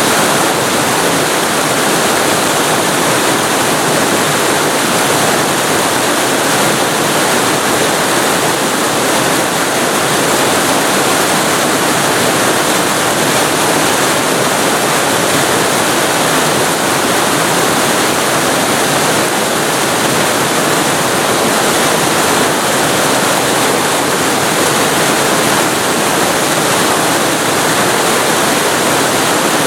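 Waterfall recorded right beside the falling water: a loud, steady, unbroken rush of water.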